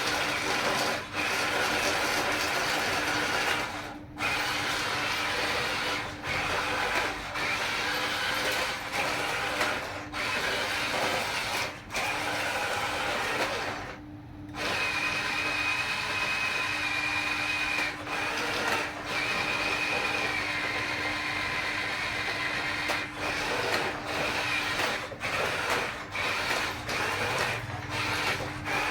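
Small electric gear motors of a remote-control toy construction vehicle whining. They stop and restart many times in short breaks, more often near the end.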